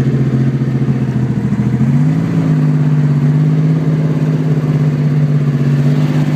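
1965 Corvair Monza's 140-horsepower air-cooled flat-six running steadily in gear, its carburetors not yet synchronized. Engine speed rises slightly about two seconds in and holds at the higher speed.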